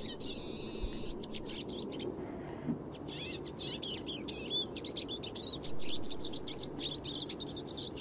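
Eurasian siskin singing a fluent, twittering and trilling song. A drawn-out wheezy buzz comes near the start, then a short pause, then fast twittering.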